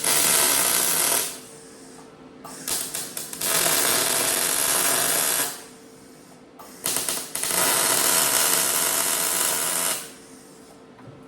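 Welding arc tacking a sheet-metal muffler inlet in place: three welds of about one, three and three seconds, each starting with a few sputtering pops before settling into a steady crackling buzz.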